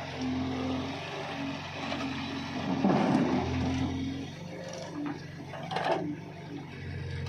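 Diesel engine of heavy machinery running steadily, with a louder rough surge about three seconds in and a short sharp knock near the end.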